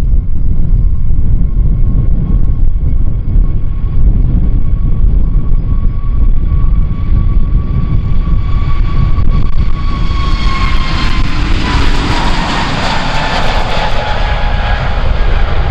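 Airbus A320-family jet airliner taking off, its engine whine and rushing jet noise building, the whine falling in pitch as the plane passes. Strong wind buffets the microphone with a constant low rumble.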